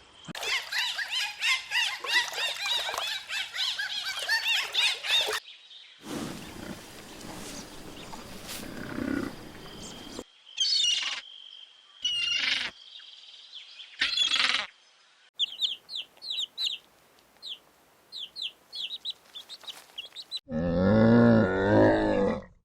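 A run of separate animal-call clips: dense, high chirping at first, later a series of short, high bird chirps, and near the end a loud, deep, drawn-out call.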